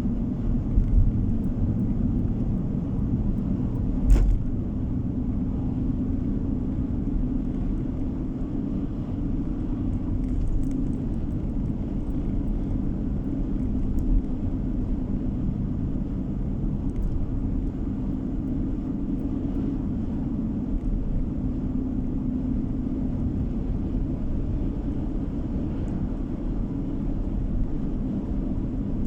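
Steady road and engine rumble inside a moving car, with a single sharp knock about four seconds in.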